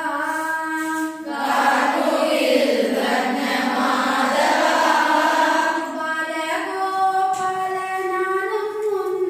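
Voices singing in long held notes. From about a second in to about six seconds, several voices sound together and blur into one, then clear held notes return.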